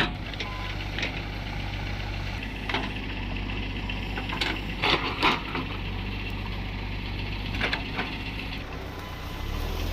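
Tractor engine running steadily at a low, even pitch, with several short sharp knocks or clanks over it, the loudest two about five seconds in.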